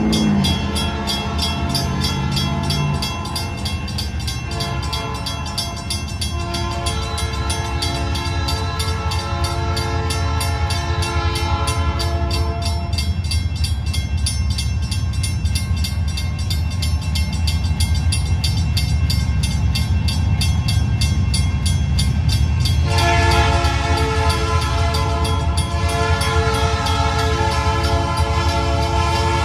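Diesel locomotive horn sounding long blasts for a grade crossing, strongest from about 6 to 13 seconds and again from about 23 seconds on, over the steady rumble of the locomotive's diesel engine. A crossing-signal bell dings rapidly and evenly throughout.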